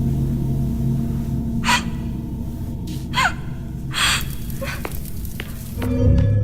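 A person gasping: several short, sharp breaths spaced apart, one with a rising pitch, over a low steady hum.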